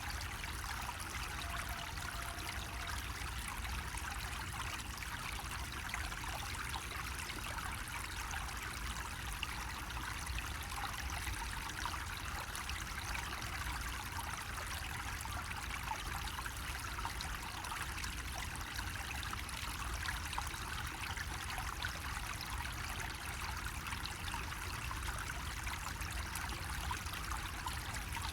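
Water running steadily from a bamboo faucet and splashing, an even, unbroken trickle and splash with a low rumble underneath.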